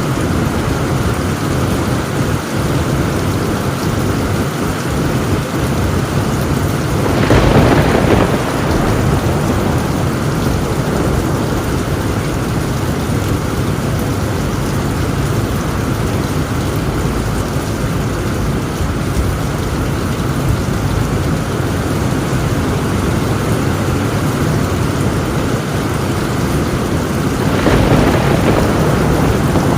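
Heavy rain falling steadily on a tin roof, with two short louder swells of thunder, one about seven seconds in and one near the end.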